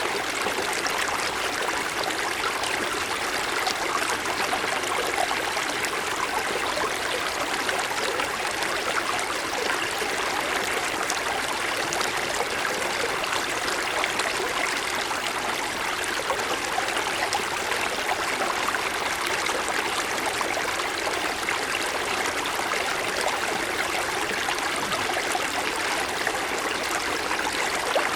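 A small mountain stream running over stones, a steady rush of flowing water with a trickle and splash in it that does not change.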